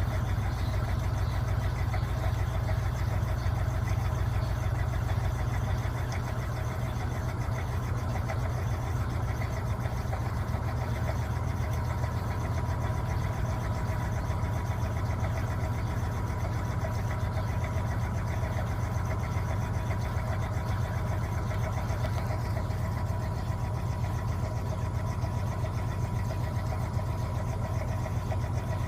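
Electrolux LTA15 washing machine running steadily, a constant low motor hum with a fine, rapid rattle and no pauses.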